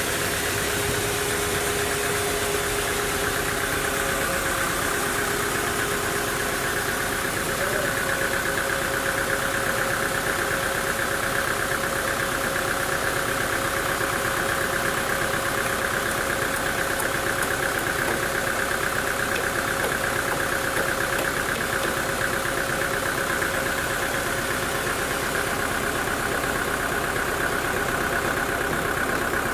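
Sawmill machinery running steadily with an engine-like drone; one of its steady hum tones steps up slightly in pitch about five to eight seconds in.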